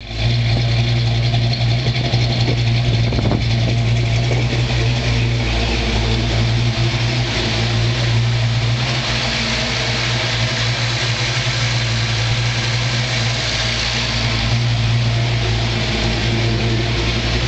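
Freshly built 347 stroker small-block Ford V8 in a Mustang GT idling steadily through Flowmaster mufflers on its first start, with zero miles on it.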